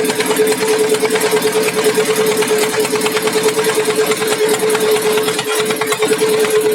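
A small boat's engine running steadily at a fast, even beat, with a constant hum.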